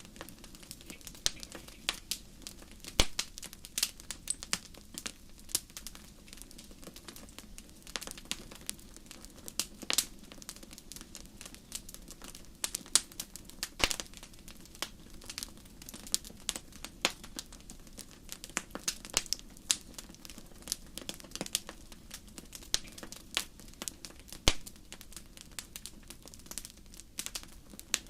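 Fire crackling: dense, irregular sharp pops and snaps over a steady low background, with a few louder pops standing out.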